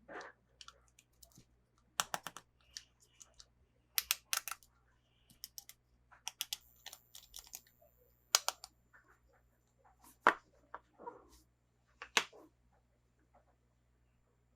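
Sharp plastic clicks and crackles in short clusters, about every two seconds, from toy packaging and small plastic parts being handled and unboxed.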